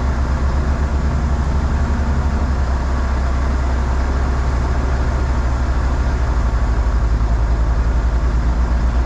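Heavy truck diesel engine running steadily, a deep low drone with a fast, even pulse.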